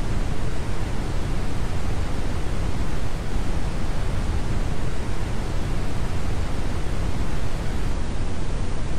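Steady noise of heavy rain and floodwater heard from inside a car driving through a flooded street, with a deep, even rumble.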